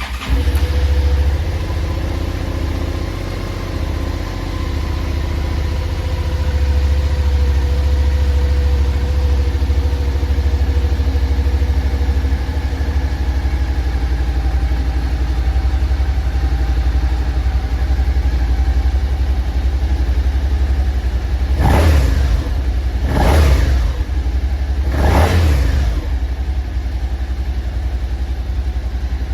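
Suzuki SV650's 645 cc 90-degree V-twin starting up and idling, its idle speed slowly easing down. About 22 s in come three quick throttle blips, each rising and falling, before it settles back to idle.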